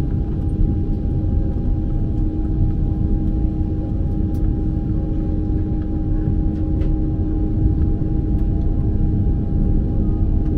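Steady low rumble and constant hum inside a Boeing 767-300 cabin, with a few faint clicks.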